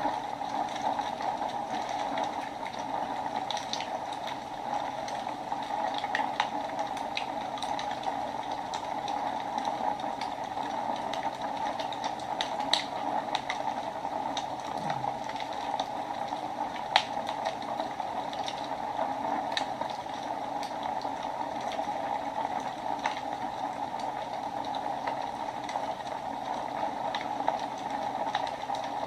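Wood fire burning in a fireplace: a steady hiss with scattered sharp crackles and pops, the loudest pop about 17 seconds in.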